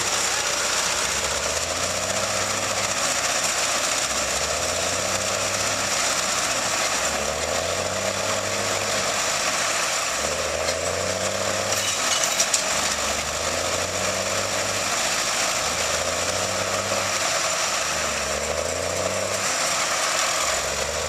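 Tractor engine running under heavy load while hauling a loaded gravel dump trailer through mud. Its low hum swells and drops about every two and a half seconds, and a few sharp knocks come about halfway through.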